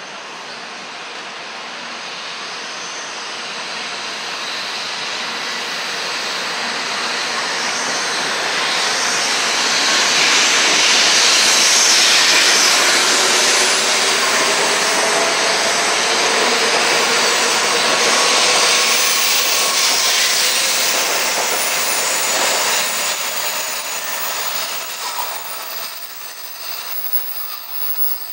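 Shinkansen bullet train running in along the platform and slowing: a rushing noise that builds for about twelve seconds and then eases off, with a whine falling in pitch through the middle as it brakes.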